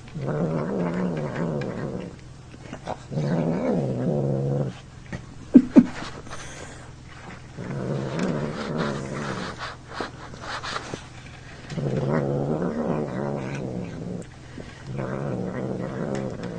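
Domestic cat growling: five drawn-out, wavering low growls of about two seconds each, with short pauses between them. Two sharp clicks come about five and a half seconds in.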